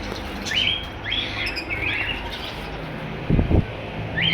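Small cage birds chirping repeatedly in short, high calls over a low background hum, with a short low thud about three and a half seconds in.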